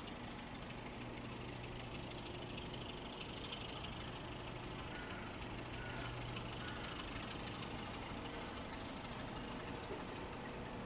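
Diesel locomotive engine idling steadily, a low, even hum.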